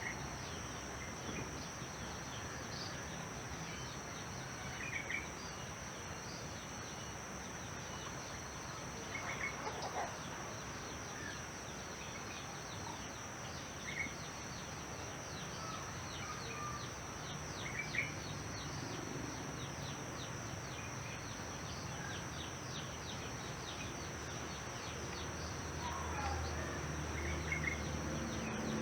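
Rural outdoor ambience: a steady high-pitched insect drone, with short bird chirps every few seconds. A low rumble swells near the end.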